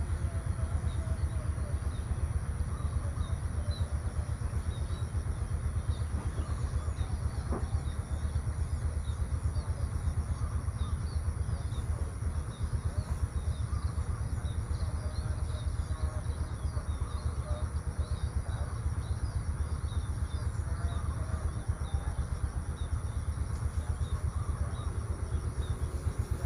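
Outdoor rural ambience: small birds chirping over a steady low rumble, with a thin steady high tone underneath.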